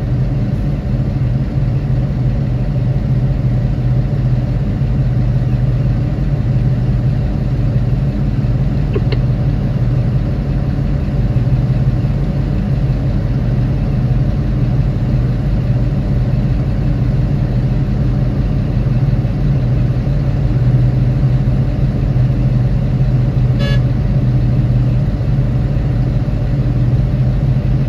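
Large diesel engine of a Hitachi 2500 mining excavator running steadily at working speed, a loud, even drone with no clear rise or fall.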